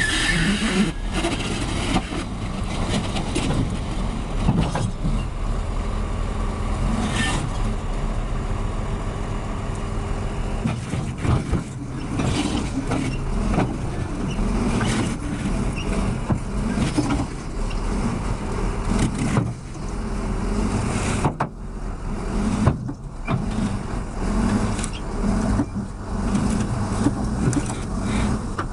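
Road traffic: car and truck engines and tyre noise running continuously, with several sudden sharp sounds along the way.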